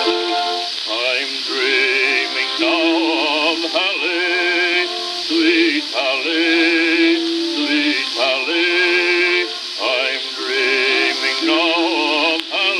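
Old acoustic phonograph recording: a whistler imitates a mockingbird with upward swoops and rapid warbling trills, over a small orchestra accompaniment. The sound is thin, with no bass.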